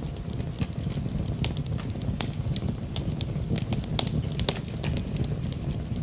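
Wood fire burning in a fireplace: a steady low rumble of flames with irregular sharp crackles and pops from the burning wood, several a second.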